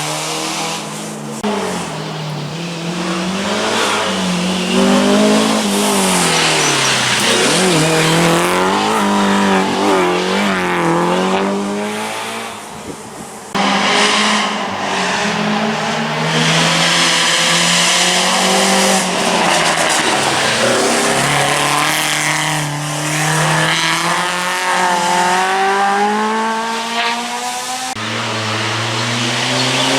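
Historic rally car engines at full throttle on a special stage, pitch rising hard and dropping sharply again and again through gear changes and lifts. About halfway through the sound switches abruptly to another car, which revs in the same way.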